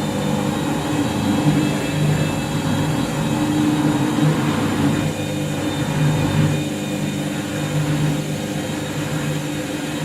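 Washing machine on its first intermediate spin, heavily overloaded with washing and extra detergent: a steady motor hum and drum rumble whose low tones swell and ease every second or two.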